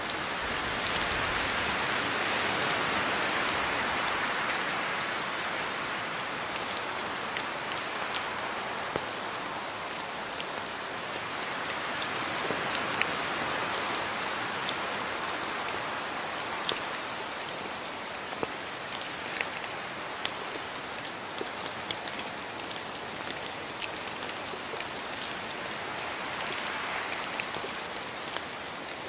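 Steady rain falling, with scattered sharp drips of drops hitting surfaces; the downpour swells and eases slowly, heaviest in the first few seconds.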